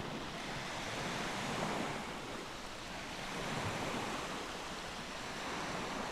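Steady outdoor rushing noise, gently swelling and easing every couple of seconds, like wind or surf.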